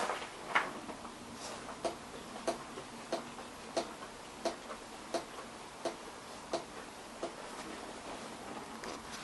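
Honda XR650R front fork knocking: a regular knock about every two-thirds of a second that stops about seven seconds in. It is the fault-knock that the fork is being checked for.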